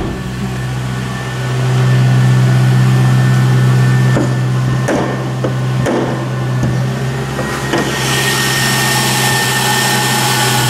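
2000 Ford Crown Victoria's 4.6 L V8 idling steadily on a cold start after sitting about a month, getting a little louder about a second and a half in. A higher hiss joins in over the last few seconds.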